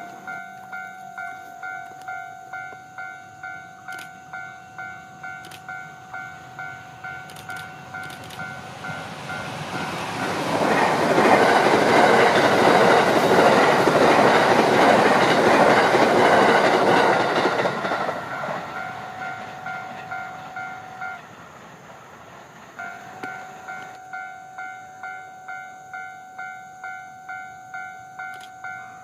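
Level crossing warning bell dinging in a steady repeat, about one and a half strikes a second, while a train passes loudly for about eight seconds and drowns it out. The bell stops a few seconds after the train has gone, then starts dinging again soon after.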